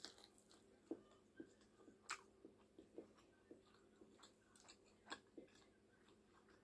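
Faint chewing of a mouthful of chicken wing, heard as irregular soft clicks and smacks.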